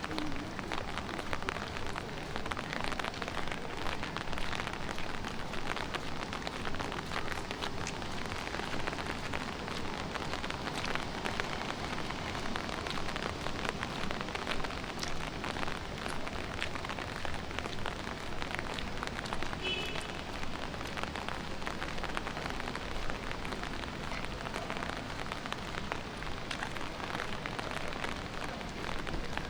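Light rain falling steadily on city surfaces, a dense even patter of small drops.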